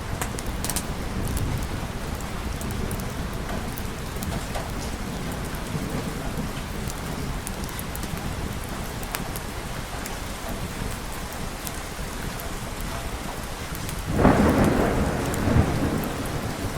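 Steady heavy rain falling. Near the end a thunderclap breaks in and rumbles for about two seconds, the loudest sound here.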